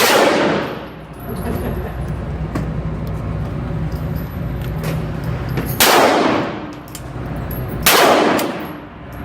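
Three gunshots from a firearm being fired at a shooting range. The first comes at the start, the other two about two seconds apart near the end, and each trails off over about a second.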